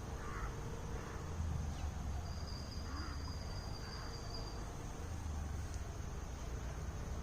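Outdoor ambience of insects droning steadily at a high pitch, with a thin high whistle held for a couple of seconds in the middle, faint chirps and a low rumble.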